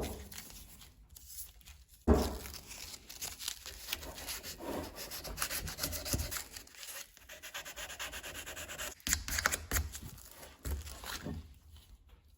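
Hand sanding of brass parts: a run of quick, scratchy rubbing strokes that picks up about two seconds in and stops shortly before the end.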